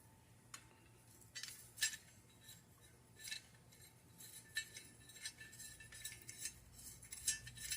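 Faint, irregular light metallic clinks and taps, more frequent in the second half: bolts and a wrench being handled as loosened bolts are taken off a small engine.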